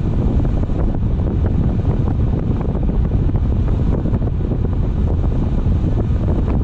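Steady low rumble of wind and road noise from a moving car, picked up by a dashcam microphone.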